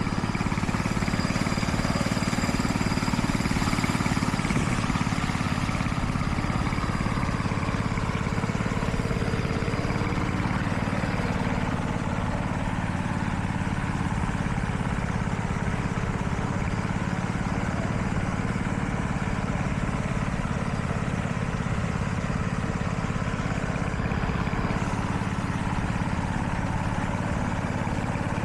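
Engine of heavy road-construction machinery running steadily at an even speed, with a faint high whine over the first dozen seconds.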